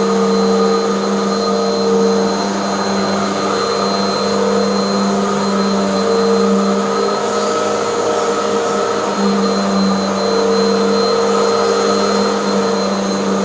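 Hoover bagless vacuum cleaner running steadily on carpet, a constant motor hum and whine with small swells in loudness.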